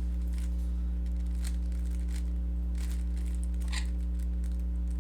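Faint scattered clicks of a Rubik's cube being turned through an algorithm, over a steady low electrical hum that is the loudest thing throughout.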